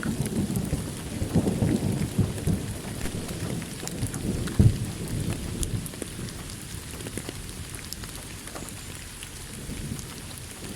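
Thunder rumbling and fading away over steady rain, with one sharp crack about halfway through.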